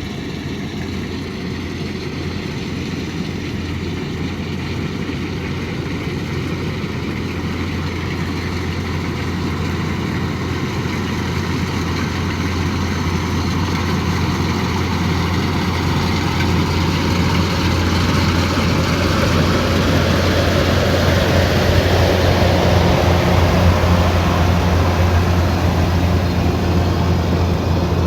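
Kubota DC108X combine harvester running as it works, a steady mechanical drone with a deep engine hum underneath, growing gradually louder.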